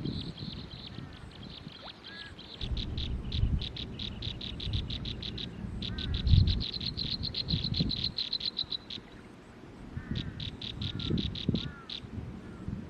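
Bird chirping in rapid runs of high, evenly repeated chirps, about five a second, stopping and starting three times, with a few softer falling chirps. Rustling and knocks sound underneath, the loudest about halfway through.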